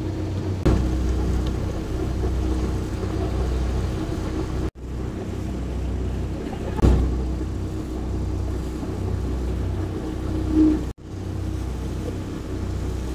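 Steady low drone of a river passenger boat's engine running underway, with a held hum over it. Two brief low thumps, about a second in and near the middle, and the sound breaks off for an instant twice.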